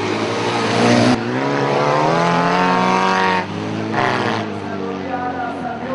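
Car engines revving hard, one climbing steadily in pitch for about two seconds before dropping away, over a steady low engine drone.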